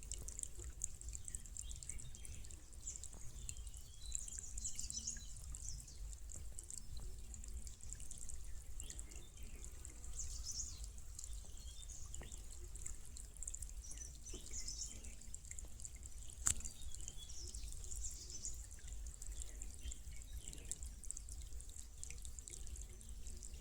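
A shallow stream trickling and burbling gently over basalt rock, with light dripping. A single sharp click about two-thirds of the way through.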